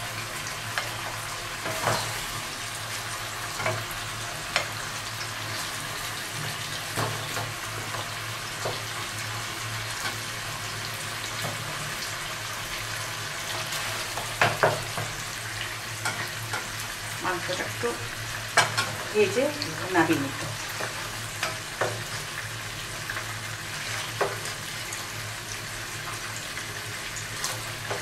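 Chicken pieces sizzling steadily in hot oil in a nonstick pan, with scattered clicks and scrapes of a plastic spatula as pieces are lifted out into a glass bowl, busiest about halfway through and again around two-thirds in, where a few short squeaks come in.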